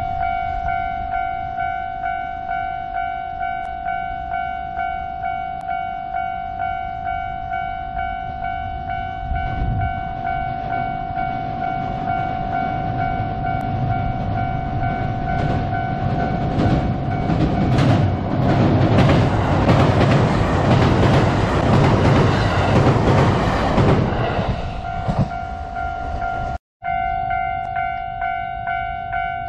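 A level crossing warning bell rings in an even, steady rhythm while a JR West 227 series electric train approaches. From about 16 s to 24 s the train's wheels rumble and clatter loudly as it crosses the steel railway bridge and drown out the bell. After a short break near the end the crossing bell rings again.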